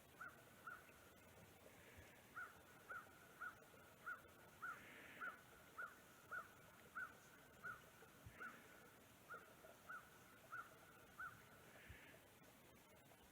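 Faint bird calling outdoors: a long run of short, evenly spaced notes, about one and a half a second, with a brief pause early on.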